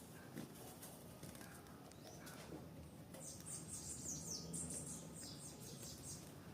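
A bird singing: a run of quick, high, falling notes about halfway in, lasting some three seconds, over faint steady background noise.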